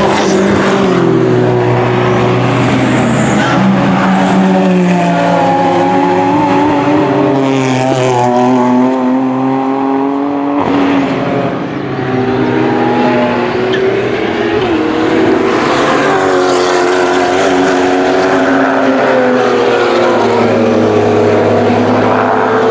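GT race cars passing one after another at full throttle. Several engine notes overlap, with the pitch climbing and dropping through gear changes.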